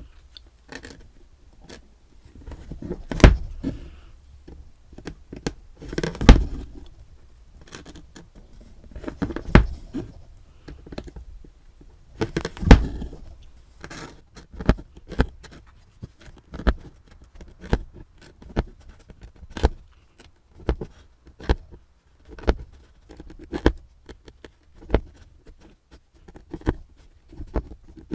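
Hand-embroidery needle pricking through fabric and thread being drawn through. A louder poke with a short scratchy pull comes about every three seconds at first, then sharp ticks come about once a second from about halfway on.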